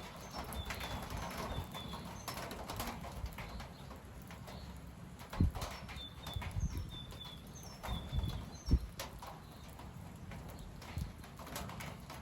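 Strong gusty wind rushing through tall trees and buffeting the microphone with low thumps, the gusts of an approaching convective cold front. A bird gives two runs of short high chirps, near the start and again about six seconds in.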